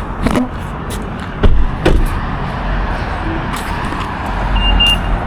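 Car running, heard from inside the cabin as a steady low rumble, with a few sharp knocks in the first two seconds and a short high beep near the end.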